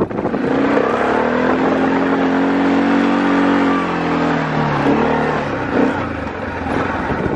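Four-wheeler (ATV) engine running while clearing snow, its pitch rising to a peak about three seconds in and then falling away again.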